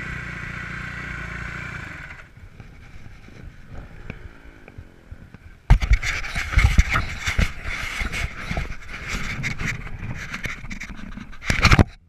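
Kawasaki KX250F single-cylinder four-stroke motocross engine idling, switched off about two seconds in. From about halfway on there is loud scraping and rubbing against the helmet-mounted camera as the helmet is taken off, with a loud burst near the end.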